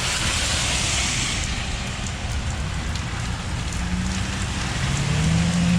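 Steady hiss of rain with street traffic, brightest in the first second or so. A low steady hum comes in about four seconds in.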